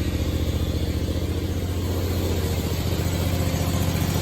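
Engine of a 2017 Scag Tiger Cat II zero-turn mower running steadily, warming up just after its first cold start of the season with the choke off.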